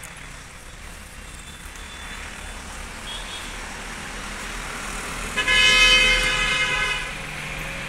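Passing road traffic, its noise slowly swelling, with a vehicle horn sounding one steady blast for about a second and a half past the middle.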